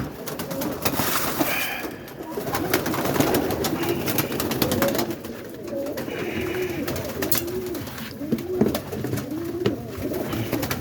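Roller pigeons cooing in a loft, several birds giving repeated rolling coos that overlap one another, with many sharp clicks and rustles among them.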